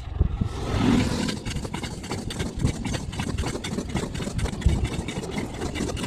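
Freight train passing close by: a sudden, loud, steady rumble filled with rapid clattering from the wheels and wagons.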